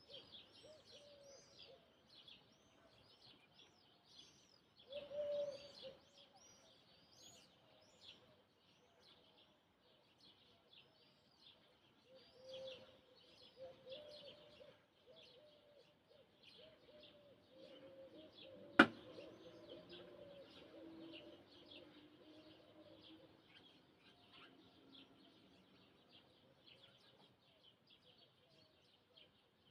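Morning chorus of many small birds chirping rapidly and continuously, with a lower repeated call beneath. A single sharp click about nineteen seconds in is the loudest sound.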